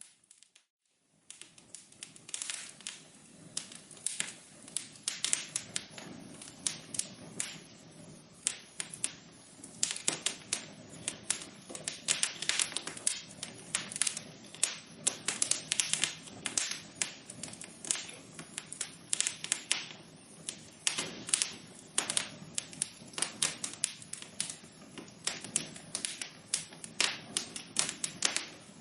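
Wood fire crackling in a fireplace: a dense, irregular run of sharp pops and snaps over a low hiss of burning. The sound drops almost to nothing for about a second near the start, then the crackling resumes and carries on thickly.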